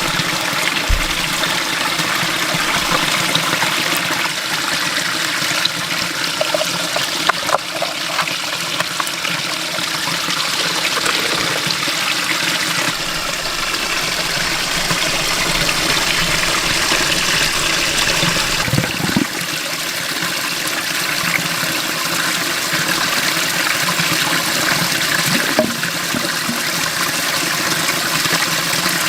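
Running water, a steady rushing flow, with a few small knocks near the middle.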